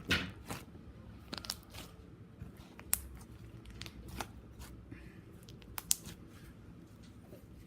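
Slime being stretched and squished by hand, giving scattered sticky clicks and crackles at irregular intervals.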